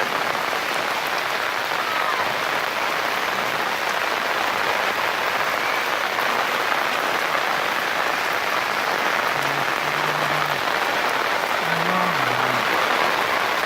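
Steady, heavy rain falling, an even hiss of drops.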